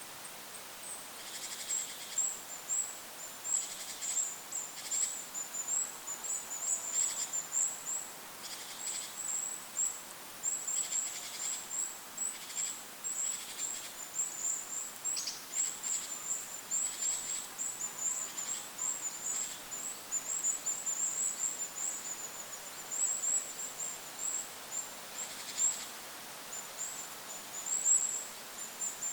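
Goldcrest calling: near-continuous runs of very thin, high-pitched notes in quick succession, over a steady wind hiss.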